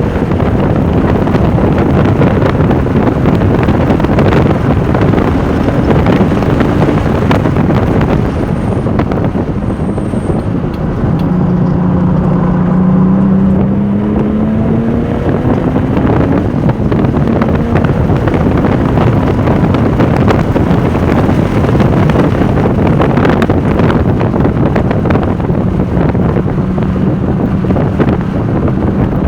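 Porsche 996 Turbo's twin-turbo flat-six running hard at speed under heavy wind buffeting on the microphone. The engine note climbs in pitch about halfway through, then eases off.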